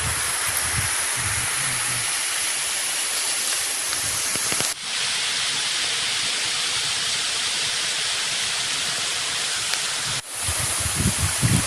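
Waterfall: water rushing in a steady, even wash of noise that cuts out for an instant twice.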